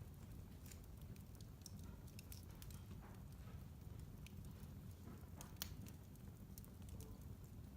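Wood fire in a fireplace crackling faintly: scattered sharp pops and snaps over a low steady rumble, with one louder pop about two thirds of the way through.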